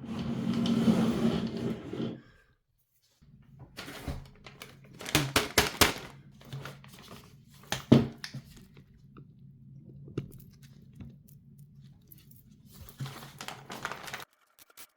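Hands handling PC parts and their packaging: crinkling and rustling, then scattered clicks and a sharp knock about eight seconds in, over a faint low steady hum.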